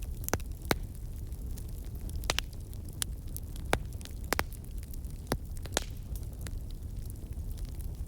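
Campfire crackling: irregular sharp pops and snaps from burning wood over a steady low rumble of the fire.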